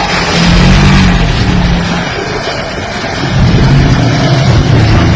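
Off-road vehicle engine running under load and revving, easing off about two seconds in and revving up again about a second later.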